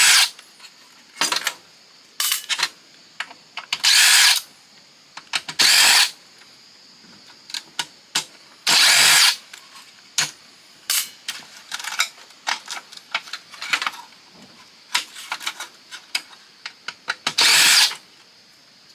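Cordless power driver running in short bursts, about six over the stretch, backing screws out during the teardown of a fax machine, with small clicks and knocks of parts being handled between the bursts.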